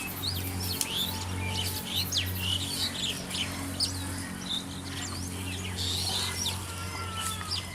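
Many small birds chirping and whistling at once, with quick calls that sweep up and down in pitch, over a steady low hum.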